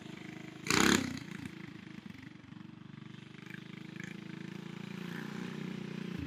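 Single-cylinder Tillotson 212cc engine of a Rascal mini bike running at a steady speed, growing slowly louder, with a short loud burst of noise about a second in.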